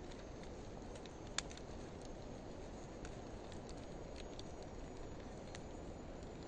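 Wood fire of driftwood and dry hardwood burning: a steady low rumble of flames with scattered small crackles and one sharp pop about a second and a half in, slowed to half speed.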